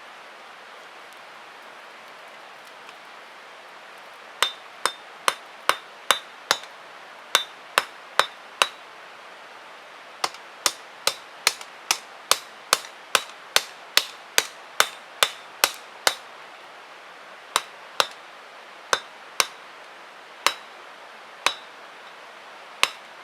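Hammer striking metal on an anvil in hand forging: sharp ringing blows in two quick runs of two to three a second, then a few slower single blows near the end.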